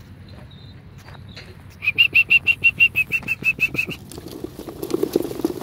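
A quick, even run of about fourteen high chirps lasting two seconds, then young racing pigeons clattering their wings as they take off together near the end.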